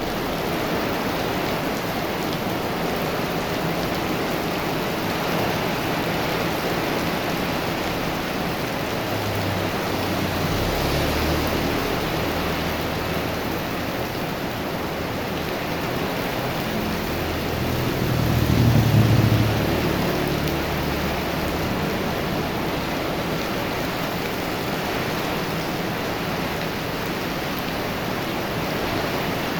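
Heavy rain pouring steadily, an even hiss throughout. A low rumble comes in about a third of the way through, swells to its loudest a little past the middle, then fades.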